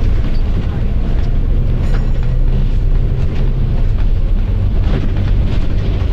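Volvo B9TL double-decker bus's six-cylinder diesel engine running, a loud steady low drone heard from the upper deck. A couple of brief clatters sound over it, about two and five seconds in.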